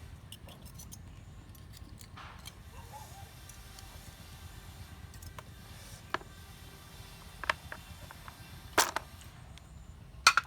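A handful of sharp, separate knocks or taps, about four, spaced a second or so apart and louder towards the end, over a low steady background hum.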